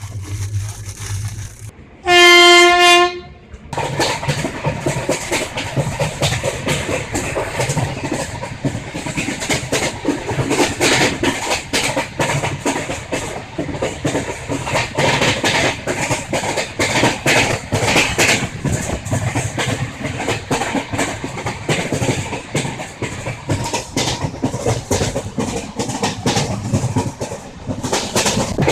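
A train horn sounds once, a single loud blast of about a second, then the train runs on with its wheels clattering steadily over the rail joints, heard from on board.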